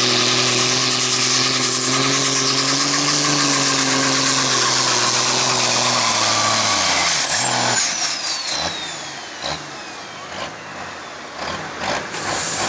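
Super Sport class pulling tractor's engine running loud at full power, then cut off about seven seconds in. A high whine falls away over the next couple of seconds as it winds down, followed by scattered knocks and clatter.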